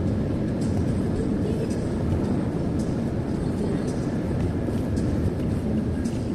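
Steady road and tyre noise with engine hum, heard from inside a car cruising on the highway.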